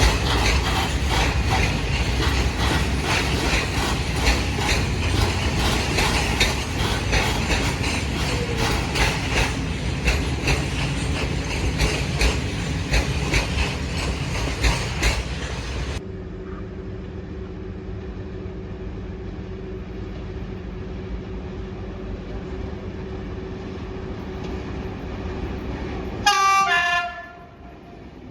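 A train passing close, its wheels clattering rhythmically over the rail joints, which cuts off suddenly. Then a locomotive's steady low hum, and near the end a short horn blast that falls in pitch.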